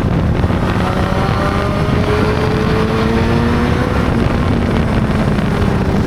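Honda CB600 motorcycle's inline-four engine running under way. Its pitch climbs slowly for a few seconds as the bike gathers speed, then holds steady, with wind buffeting the microphone.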